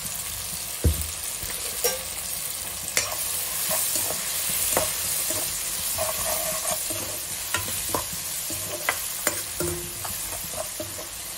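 Sliced onions, tomatoes and green chillies sizzling steadily in hot oil in a non-stick wok, with scattered knocks and scrapes of a metal spatula stirring them against the pan.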